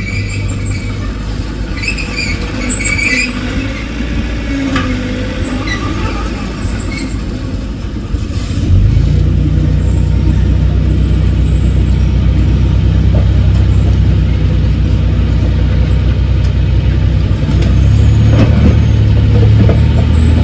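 Heavy diesel engine of an earthmoving machine running steadily. About nine seconds in it steps up to higher revs and louder running, and holds there. A few short high chirps sound in the first few seconds.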